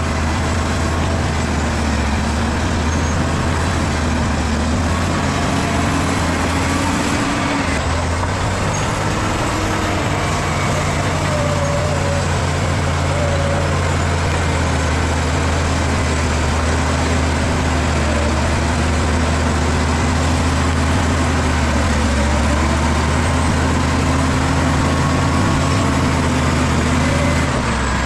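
Bulldozer's diesel engine running steadily with a deep hum, its pitch wavering slightly, over continuous mechanical noise.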